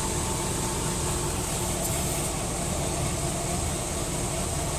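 A motor running steadily: a constant mechanical drone with a low, even pulse and a steady hum, unchanged throughout.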